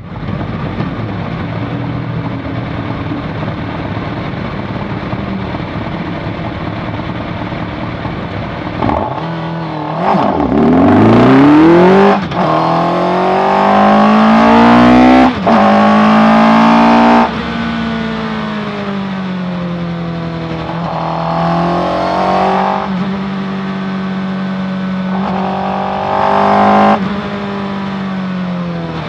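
Suzuki Hayabusa 1300 inline-four engine of an SKC Raptor R track car, heard from the cockpit. It runs at steady low revs, then about nine seconds in revs hard and climbs in pitch through the gears, with three quick upshifts. After that it settles to lighter, steadier running, with two brief bursts of throttle near the end.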